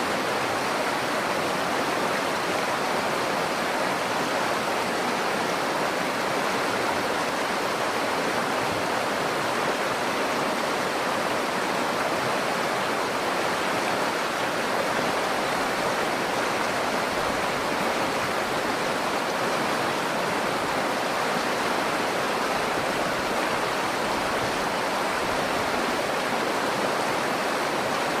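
Nakdong River water flowing, a steady, even rush with no change in level.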